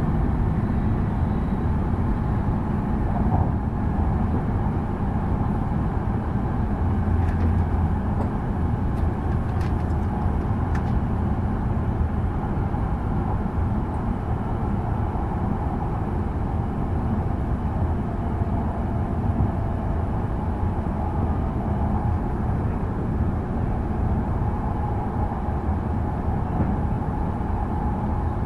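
Steady low rumble and rush of a Tohoku Shinkansen bullet train running at speed, heard from inside the passenger cabin.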